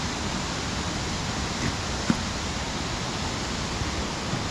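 Steady rush of a waterfall's falling water, an even hiss with no change, with one faint click about two seconds in.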